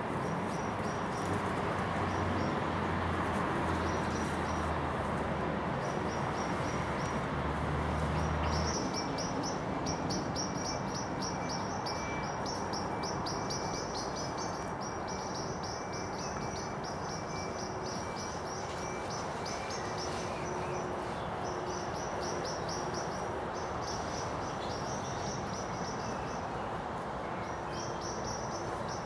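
Small birds chirping in rapid runs of short, high-pitched notes, over a steady rushing background noise; a low hum is present during the first nine seconds or so.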